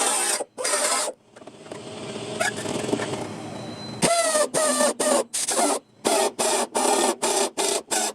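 A power tool running, steadily at first, then switched on and off in short bursts about three times a second, its pitch dropping at the start of each burst.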